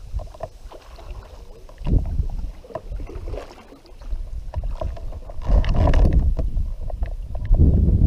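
Sounds of fishing from a kayak on the water: surges of low rumble on the microphone, loudest about two seconds in and again near the end, with scattered small knocks and clicks.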